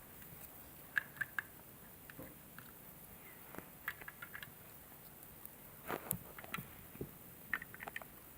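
Plastic Lego bricks clicking as pieces are handled and pressed together: scattered sharp clicks, some in quick clusters of two or three.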